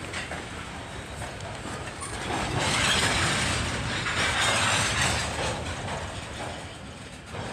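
Freight train of tank cars rolling past, with wheels clicking over rail joints. A louder rush of wheel noise builds about two seconds in and eases off again after about five seconds.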